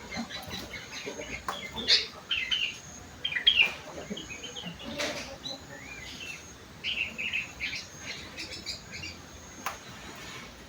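Sooty-headed bulbul (kutilang) singing a run of short, quick chirping phrases in the borrowed style of a leafbird (rengganis / cucak wilis). A few sharp clicks come between the phrases.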